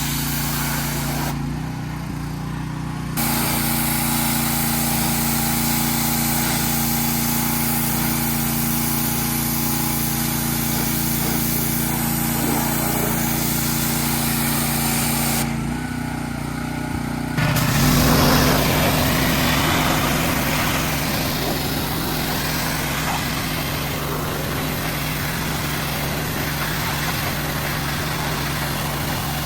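An engine running steadily, its sound shifting abruptly about three seconds in and again near the middle, where it gets louder.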